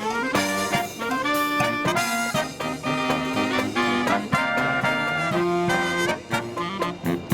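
Brass marching band playing a Christmas parade medley: trumpets and trombones in held, moving chords over drum strokes.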